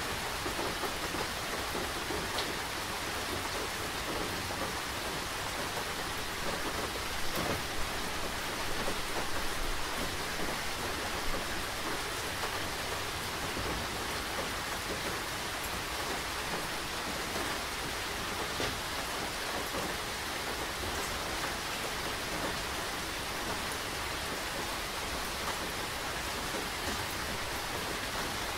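Steady rain falling, a dense hiss with scattered drops, a little heavier for a few seconds in the first half.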